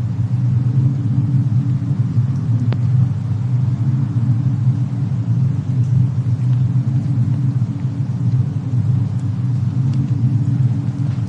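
Fireplace-and-snowstorm ambience: a steady low rumble with a faint hiss above it, one sharp crackle from the fire about three seconds in, and a few fainter ticks later on.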